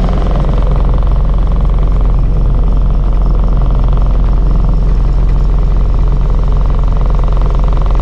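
Off-road 4x4's engine running steadily, heard from inside the cab.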